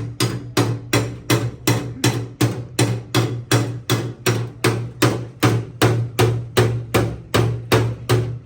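A hammer beating the sheet metal of a car door in quick, even blows, about three to four a second, each with a short ring.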